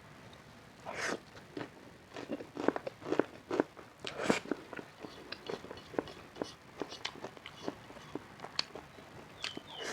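Close-miked eating: crunchy bites into crispy spicy Korean fried chicken, followed by chewing. The crunching is densest and loudest in the first half, then thins to lighter chewing clicks.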